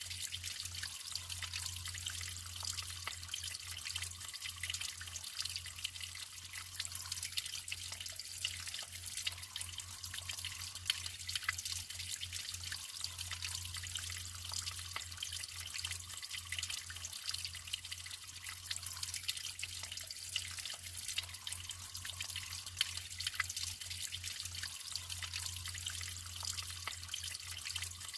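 Natural flowing water trickling and splashing steadily, a dense busy patter of small splashes, with a low steady hum beneath.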